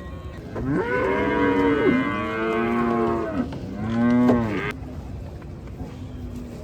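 A cow mooing twice: one long call of nearly three seconds, then a shorter call of about a second.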